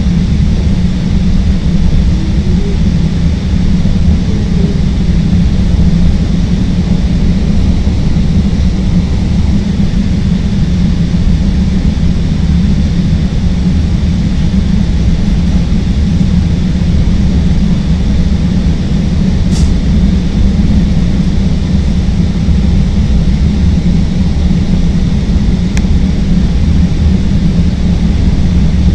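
Chicago 'L' rapid-transit train running at speed, heard from inside the car: a steady, loud low rumble of wheels on rail and traction motors, with two brief sharp clicks in the second half.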